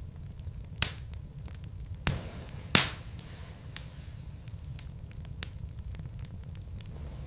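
Wood fire burning in a fireplace: logs crackling with scattered sharp pops over a steady low rumble, three louder pops coming in the first three seconds.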